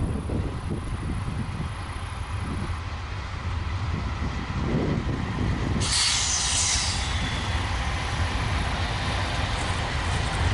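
Loaded coal train passing: diesel locomotives running by, then the coal hopper cars rolling, a steady low rumble that grows louder about six seconds in. A short burst of hiss lasts about a second as the locomotives pass.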